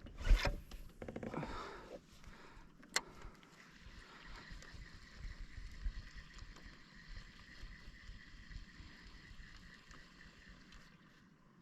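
Faint water sounds around a sit-on fishing kayak. A splash or knock comes right at the start and a sharp click about three seconds in, then a steady low hiss.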